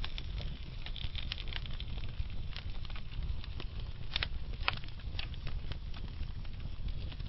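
Wood fire burning slowly in a fireplace: a low steady rumble of flame with irregular sharp crackles and pops from the burning logs, a few louder pops about four to five seconds in.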